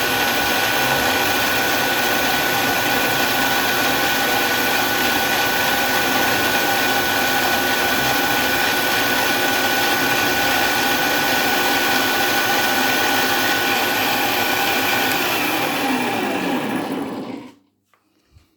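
CNC milling machine spindle running at a steady high whine, then spinning down with a falling pitch and stopping about three seconds before the end.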